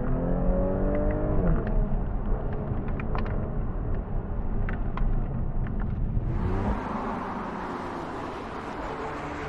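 Audi S5 Sportback's turbocharged 3.0-litre V6 accelerating hard in second gear under manual shifting, rising in pitch, then shifting up to third about a second and a half in and pulling on. From about six seconds in, the car is heard from outside, with tyre and road noise over the engine.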